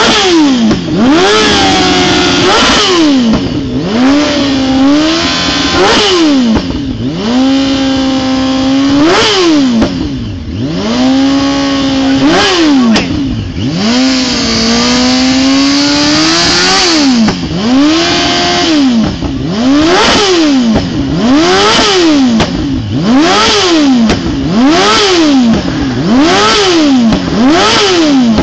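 Yamaha R1 sportbike's inline-four engine revved hard while standing, through an aftermarket Termignoni exhaust. Several revs are held flat at high rpm for a second or more, against the rev limiter cutting the ignition. From about two-thirds of the way in, the revs become a regular run of quick blips, about one a second.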